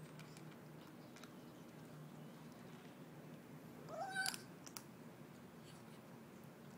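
Kitten eating, with a low steady "mmmm" hum and faint chewing clicks, then one short rising mew about four seconds in.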